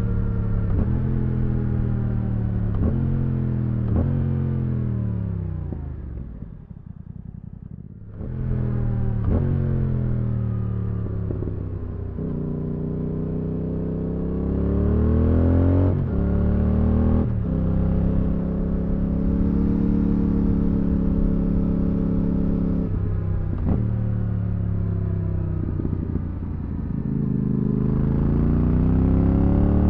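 Yamaha R7's parallel-twin engine through an IXIL Dual Hyperlow exhaust, fitted with its dB-killer, pulling through the gears. The pitch climbs, then drops at each gear change. About a quarter of the way in the throttle closes and the engine note falls away before it pulls again. There is a stretch of steady cruising in the middle.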